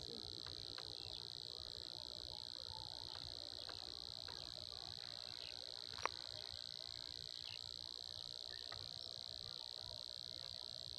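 A steady, faint high-pitched chorus of frogs and insects, with scattered faint ticks and a single sharp click about six seconds in.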